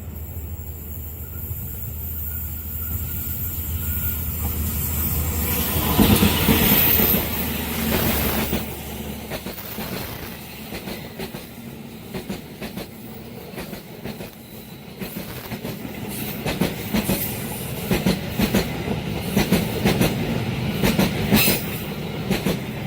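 A long Indonesian diesel-hauled passenger train passing close by at speed. The locomotive's engine hum peaks and fades about a third of the way in, then the carriages' wheels clack rhythmically over the rail joints.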